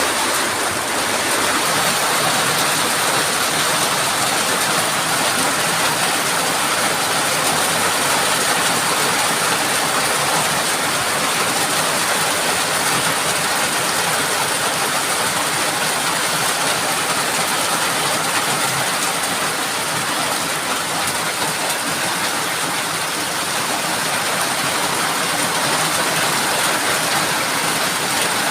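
Heavy rain falling in strong wind: a steady, dense rushing hiss that barely changes in level.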